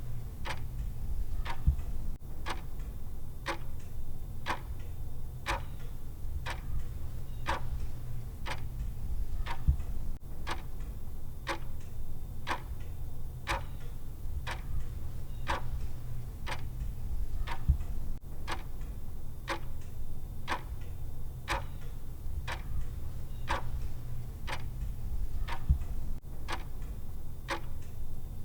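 Clock-tick sound of a countdown timer: evenly spaced ticks, a little more than one a second, over a steady low hum.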